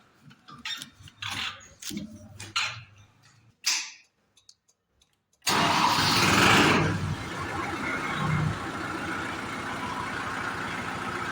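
A Kubota MU4501 tractor's four-cylinder diesel engine starting from cold: a few small clicks and knocks, a short silence, then about five seconds in it fires with a sudden loud burst. It settles after a second or so into a steady idle.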